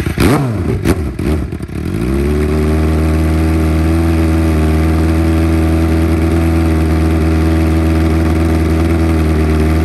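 A 2008 Suzuki GSX-R 750's inline-four engine, just started, is revved up and down for the first couple of seconds, then settles into a steady idle.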